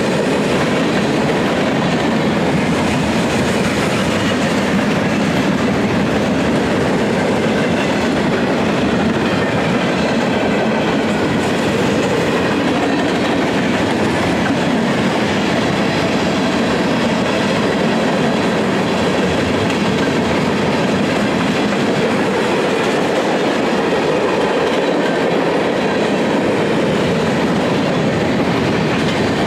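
Train cars rolling past at close range: a loud, steady rumble of wheels on rail with clickety-clack over the rail joints, unbroken for the whole half minute.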